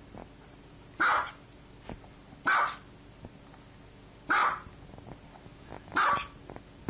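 A dog barking four times, single barks spaced about a second and a half apart.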